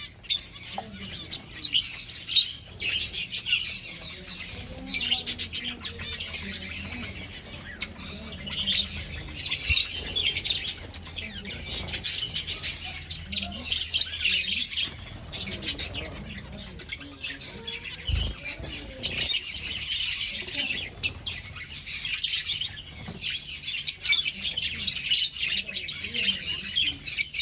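A colony of aviary finches chirping continuously, many short high calls overlapping. A faint steady low hum runs underneath, and there is one brief low thump about two-thirds of the way through.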